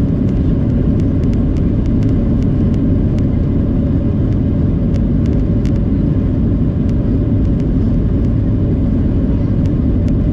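Cabin noise inside a Boeing 737-700 during takeoff: a loud, steady rumble from its CFM56-7B turbofan engines and the airflow, with a steady hum over it. Many small clicks and rattles from the cabin run through it.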